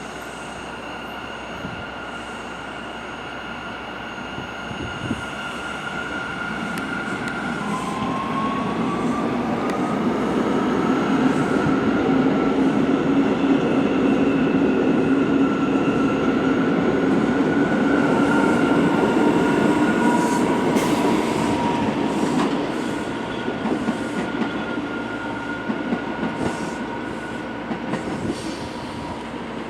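A New York City subway train moving past, growing louder and then fading away, with steady high-pitched whining tones over a low rumble and a run of clicks from the wheels over rail joints in the second half.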